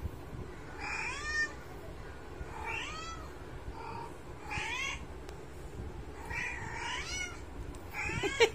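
A cat meowing over and over, about six meows one to two seconds apart, each rising and falling in pitch. The last one, near the end, is the loudest.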